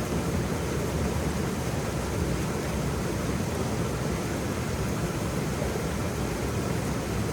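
Waterfall: steady rushing and splashing of falling water, deep and even with no breaks.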